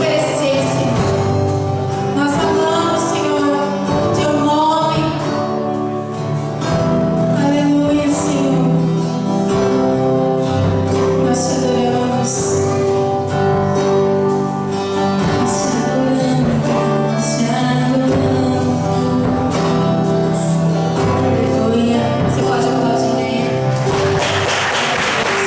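A church worship team singing a gospel song with band accompaniment. Applause breaks out near the end as the song finishes.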